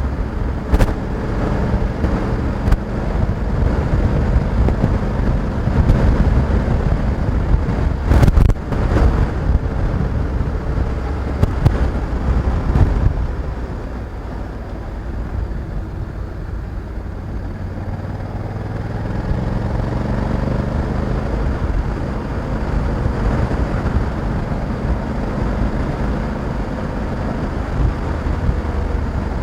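Honda Africa Twin 1100 DCT motorcycle's parallel-twin engine running on the move, with wind rush on the microphone. A brief cluster of sharp knocks comes about eight seconds in; the engine eases off around the middle and then rises again as it accelerates.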